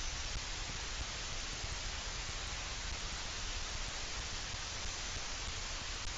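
Steady hiss with a low rumble underneath, even throughout, with no calls or distinct sounds.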